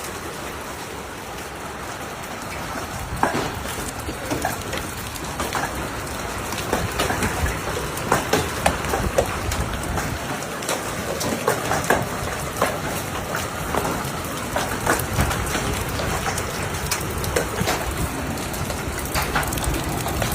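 Hail and rain pelting down, with hailstones striking hard surfaces in many sharp, irregular knocks over a steady hiss of falling rain.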